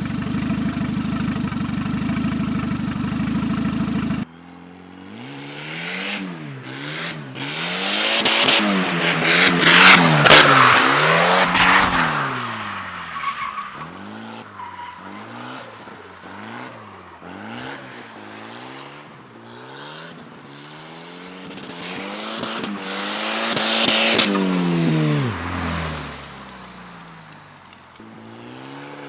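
Turbocharged Volvo 740 drift car drifting, its engine revving up and down over and over while the tyres squeal, loudest in two long slides. It opens with a steady droning sound that cuts off about four seconds in.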